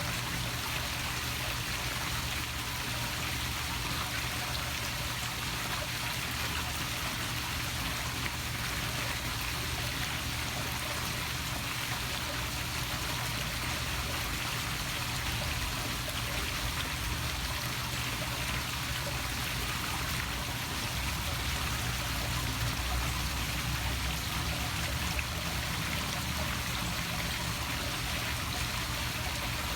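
Poolside waterfall feature splashing steadily into a swimming pool: an even rush of falling water, with a low churning rumble underneath.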